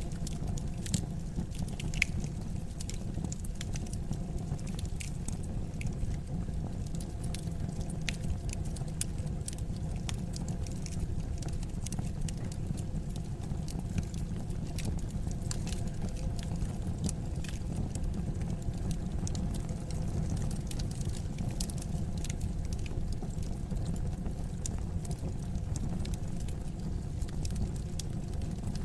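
Wood fire crackling in a fireplace: frequent sharp pops and snaps, some louder than others, over a steady low rumble.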